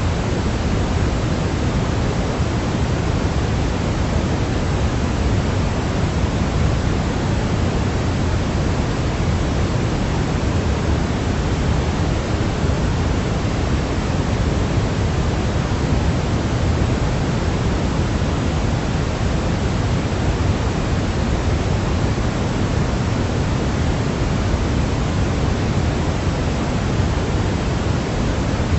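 Steady pink-type noise, even and unchanging, heaviest in the low end and softer toward the top.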